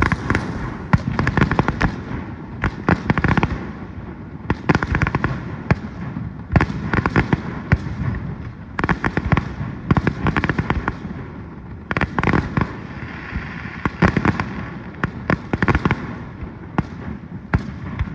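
Fireworks going off, each burst a quick cluster of sharp bangs and pops, one cluster following another every second or two.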